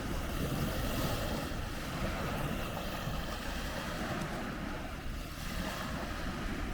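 Wind rushing over the microphone: a steady, uneven rumble with no distinct events.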